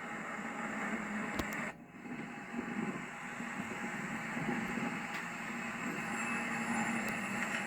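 Steady vehicle rumble with a noisy hum, briefly dipping about two seconds in.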